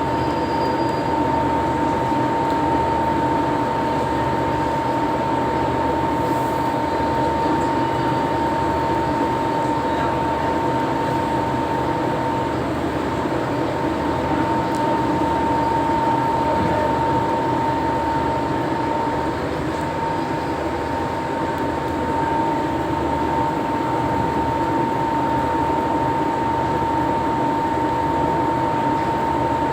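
Steady machinery drone with a constant high whine over a dense low rumble.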